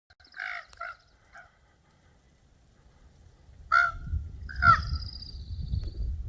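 Common ravens calling: a few short croaks in the first second and a half, then two louder, harsh calls about four and five seconds in.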